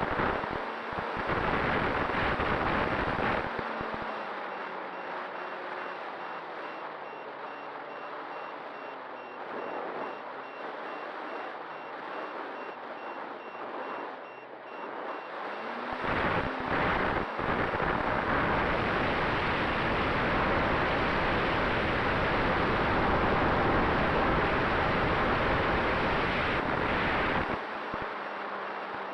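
A steady run of quick, high electronic beeps, evenly spaced, over loud rushing noise that swells and fades twice.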